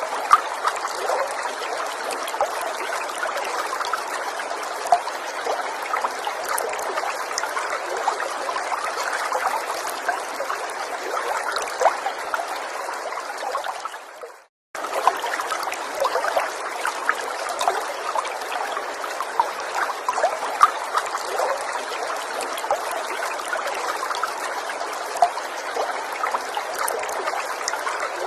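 Gentle forest stream trickling and babbling steadily, full of small splashes and drips. About halfway through the sound fades out to silence for a split second, then starts again abruptly.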